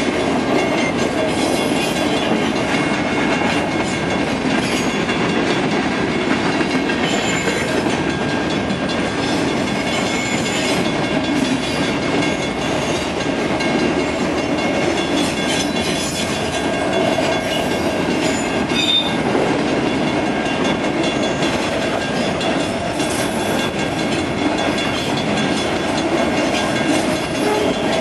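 Freight train's enclosed autorack cars rolling steadily past a level crossing. Their steel wheels make a continuous rumble on the rails, with some clatter and faint steady high tones over it.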